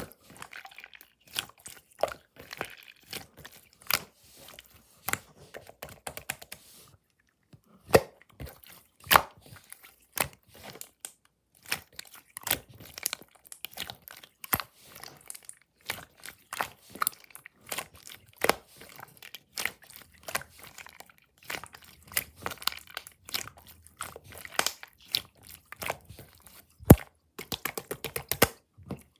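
Slime being squished, pressed and stretched by hand, giving off a dense, irregular run of sharp clicks, pops and crackles, with one loud pop near the end.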